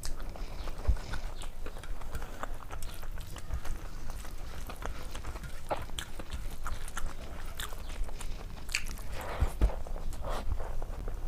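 Close-miked eating: chewing with many short wet mouth clicks and occasional crunchy bites, one person eating a meal of rice, fried fish and papad.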